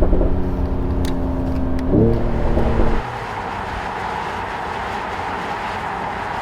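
Mercedes-AMG CLS53's turbocharged inline-six pulling under load, its note dipping at a gear change about two seconds in. About three seconds in the engine note falls away abruptly as the throttle is lifted, leaving steady road and tyre noise.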